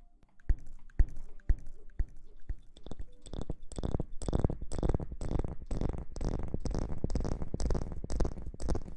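Close-up ASMR rubbing and scratching sounds: a few separate taps about half a second apart, then from about three seconds in a fast, continuous run of scratchy rubbing strokes.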